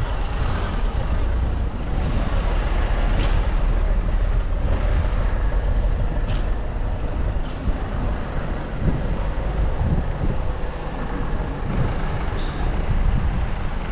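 Town street ambience: a steady low rumble of motor traffic.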